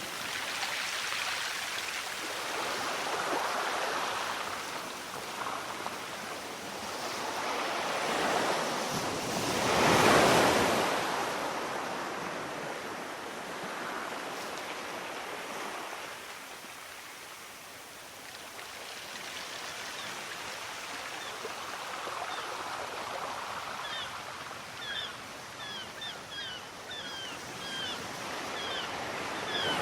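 Sea waves washing onto a shore, a rising and falling rush with the biggest swell about a third of the way in. Near the end a bird chirps in a quick series of short high notes.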